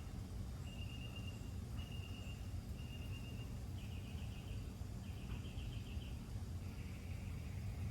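A cricket chirping: a series of short, pulsed trills at one steady high pitch, about one every second, over a low steady outdoor rumble.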